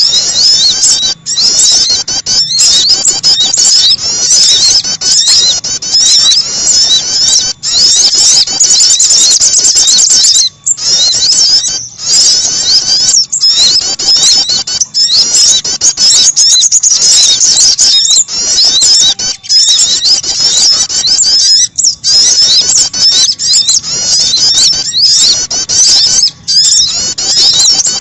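Recorded lure calls of small songbirds, sogon and prenjak, played as a bird-trapping lure: dense, rapid high-pitched chirps and short trills with many calls overlapping, broken by brief pauses every second or two.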